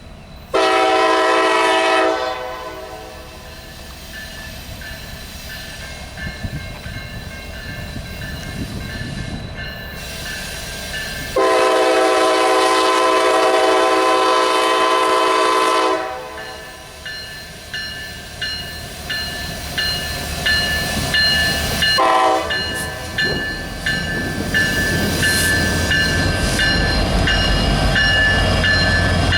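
A diesel freight locomotive's chime air horn sounds a pattern of blasts: a long one near the start, a longer one of about four seconds in the middle, a short one later, and another long one at the end, the grade-crossing signal. Between the later blasts a bell rings in a steady rhythm and the rumble of the approaching train grows louder.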